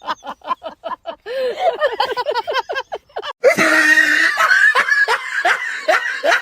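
Human laughter in quick, rhythmic bursts. About three and a half seconds in, a louder, harder laugh takes over.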